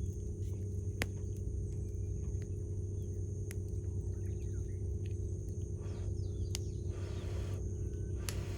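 Wood campfire crackling, with a few sharp pops, over a steady low hum and rumble. Faint bird chirps and a brief hissing flare near the end.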